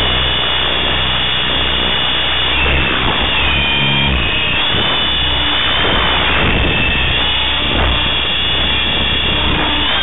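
Align T-Rex 500 RC helicopter in flight: the high whine of its electric motor and gears wavers up and down in pitch as the throttle changes, over the steady rush and low chop of the rotors.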